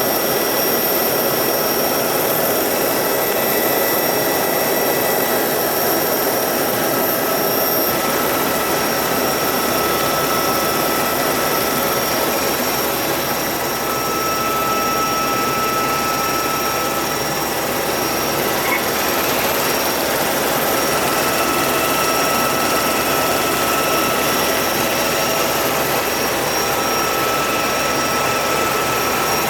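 Rotor aircraft in flight: a steady rushing whine with several held high tones, shifting slightly about eight seconds in.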